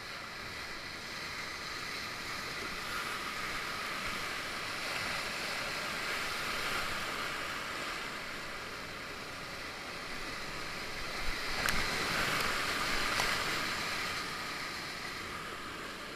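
Whitewater rapids rushing around a kayak, a steady hiss of churning water that swells through the middle, with a couple of brief sharp knocks about two-thirds of the way in.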